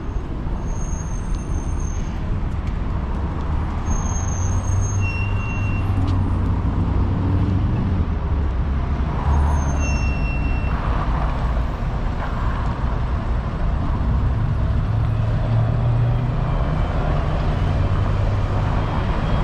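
City street traffic: the low engine rumble of passing vehicles, heavy ones such as buses or trucks among them, swelling and easing, with a few faint short high squeaks.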